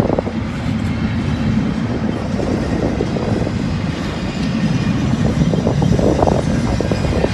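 Freight train rolling slowly past at close range, a steady low rumble of cars on the rails, with wind buffeting the microphone.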